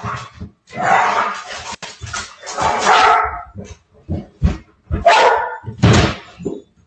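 A dog barking and yelping in a string of about five loud calls, some drawn out to nearly a second, with short gaps between them.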